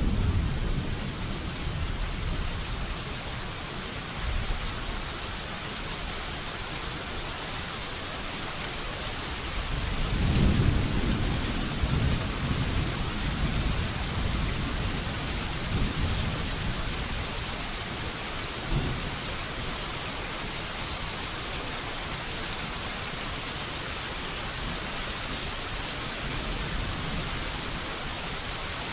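Steady rain with thunder: a loud clap's rumble fading away at the start, then a second low rolling rumble from about ten seconds in that lasts several seconds.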